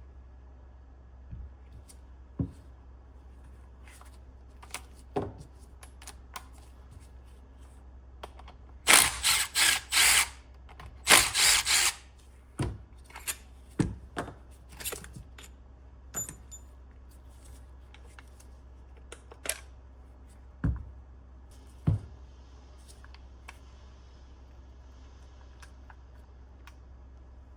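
Hand work with tools on car parts: scattered sharp clicks and knocks. Near the middle come two loud bursts of rapid rattling, each about a second long.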